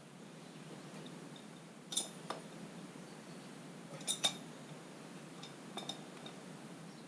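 Metal hand tools clinking: a few sharp, ringing clinks, a pair about two seconds in, a louder pair about four seconds in and fainter ones near six seconds.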